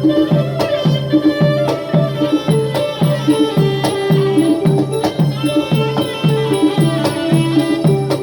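Manora (nora) traditional ensemble music: pitched drum strokes in a steady beat of about two a second, under a sustained melodic line and sharp clacking percussion.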